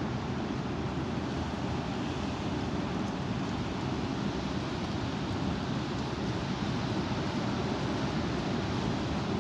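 Strong wind blowing as a steady rush of noise.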